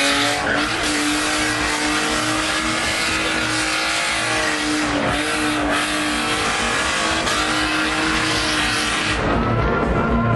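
Car engine revved high and held at a steady pitch, dipping briefly about halfway, with tyre-scrubbing noise of a skid that stops about nine seconds in.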